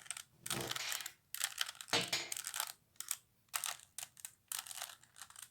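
Plastic 3x3x3 Rubik's Cube being turned by hand in a quick sequence of moves: irregular bursts of clicking and rattling as the layers snap round, with short pauses between them.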